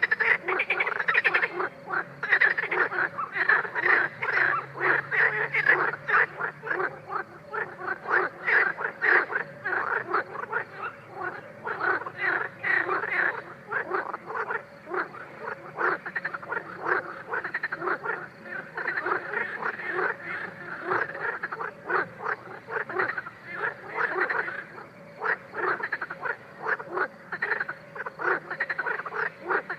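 A chorus of many frogs calling at once: dense, overlapping short croaks that keep going without a pause.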